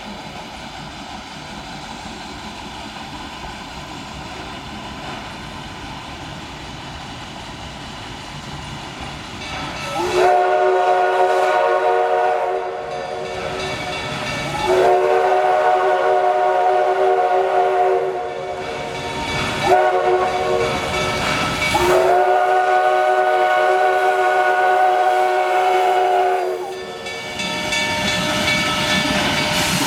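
Steam locomotive whistle of the 1880 Train sounding three long blasts, each a chord of several tones, the last the longest, after about ten seconds of quieter steady train noise.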